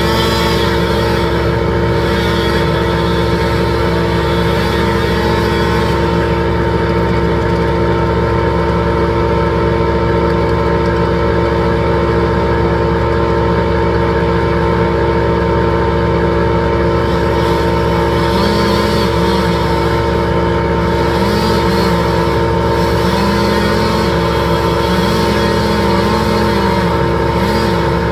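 A large engine running steadily at constant speed, a loud even drone.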